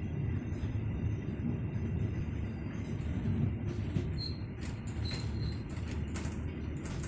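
Kahuripan passenger train running with a steady low rumble of wheels on track. Brief high squeaks and creaks come in from about four seconds in.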